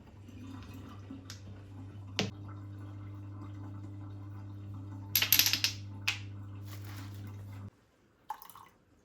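An electric appliance hums steadily and cuts off suddenly near the end, with a few light clicks and a short, loud hiss about five seconds in.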